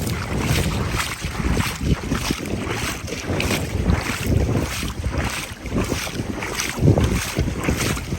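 Strong wind buffeting the microphone, with the regular splashing of waders stepping through shallow floodwater, about two steps a second.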